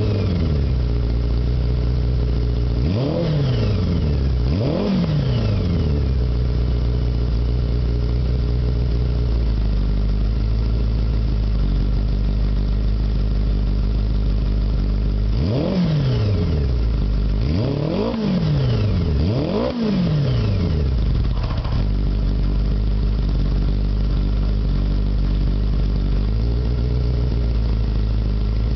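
Kawasaki GPz550 air-cooled inline-four, bored out to 615cc with Megacycle cams and a Supertrapp exhaust, idling with quick throttle blips. Two blips come a few seconds in and four more about halfway through, each revving sharply up and straight back down.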